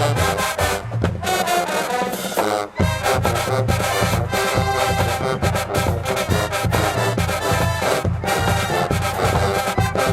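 HBCU marching band playing: brass horns over a drum beat. The low drums and bass horns are out at first and come back in with a strong beat just under three seconds in.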